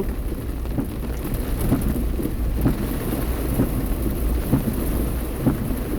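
Heavy rain heard from inside a moving car with the windows open, over a steady low rumble from the car.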